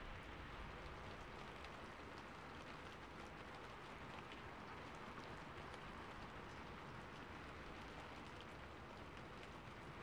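Faint, steady rain falling on a rooftop: an even hiss with many small scattered drop ticks, from a recorded ambience track.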